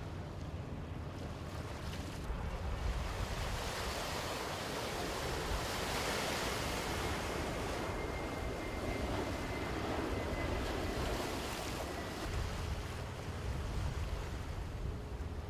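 Wind and rushing water, swelling through the middle and easing toward the end, over a low rumble.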